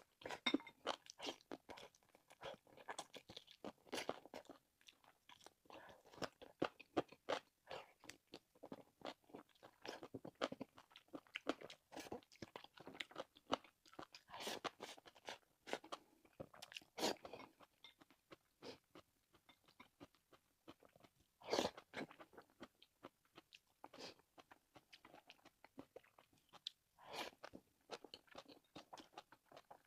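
Close-miked eating: a person chewing and biting into braised meat, with many irregular sharp, crunchy clicks and wet mouth sounds, a few bites standing out louder.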